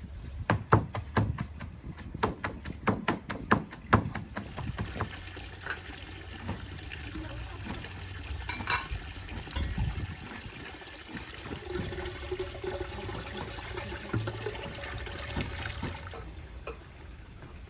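Water pouring and splashing, with a quick run of sharp knocks over the first four seconds or so, then a steady stream of pouring.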